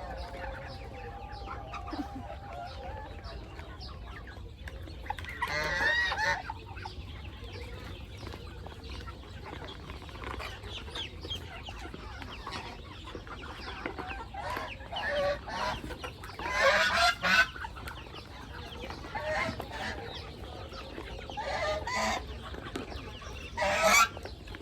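Chickens clucking and squawking in short loud bursts, the loudest calls about six seconds in, around seventeen seconds and just before the end.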